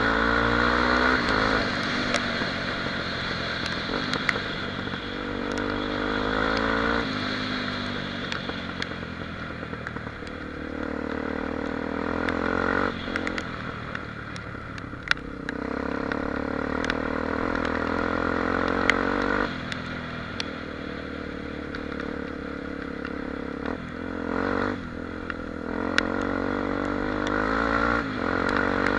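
Honda Tornado XR 250's single-cylinder four-stroke engine running under way, its pitch and loudness shifting every few seconds with throttle and gear changes. Scattered sharp clicks and knocks are heard over the engine.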